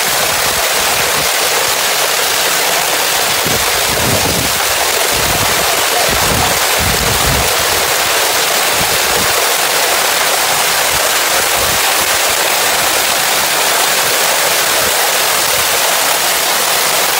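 Heavy thunderstorm downpour pelting the ground and the house siding as a loud, steady hiss, with a few low rumbles partway through.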